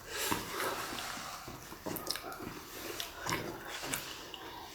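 Close-up chewing of a whole big momo crammed into the mouth in one bite: soft, scattered wet mouth clicks and smacks.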